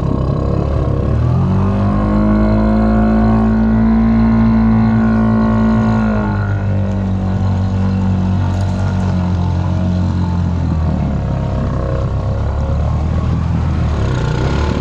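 Honda Rancher 420 ATV's single-cylinder engine under load. It revs up about a second and a half in, holds high until about six seconds, then settles to a lower, steady pull.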